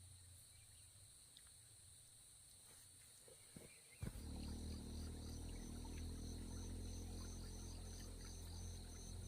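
Steady high drone of insects, joined about halfway by a pulsed chirp repeating two or three times a second. About four seconds in a sharp knock is followed by a steady low rumble.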